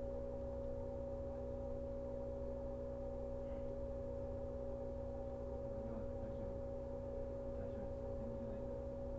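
Steady electrical hum and whine from a JR 115 series electric train's onboard equipment, heard inside the motor car while the train stands still: two unchanging tones over a low drone.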